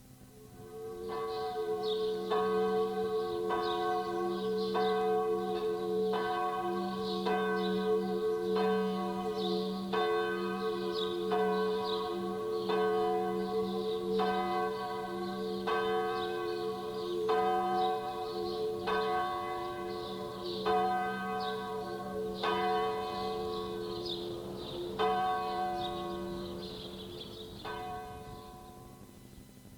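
Church bells ringing, struck about once a second over a steady, humming ring, fading out near the end.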